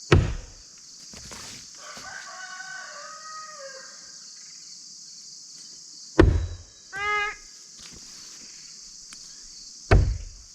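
Three sharp thuds of thrown blades hitting a wooden target: one just after the start, one about 6 s in and one near 10 s. Between them a rooster crows, falling in pitch at the end, and a short animal call follows the second thud. A steady high hiss runs underneath.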